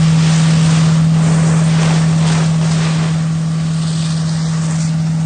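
Fire truck's engine running with a steady low drone while its water stream sprays with a rushing, surging hiss; the hiss eases slightly about three seconds in.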